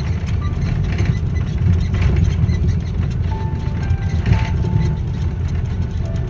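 Steady low rumble inside the cabin of an Airbus A330 airliner on the ground after touchdown, with soft cabin music notes playing over it.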